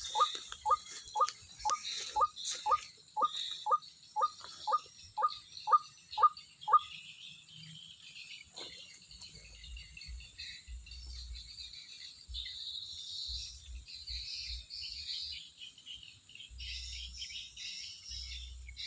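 White-breasted waterhen calling: a steady series of short, falling notes at about two per second that stops about seven seconds in. Faint high-pitched insect and bird chirping goes on behind it.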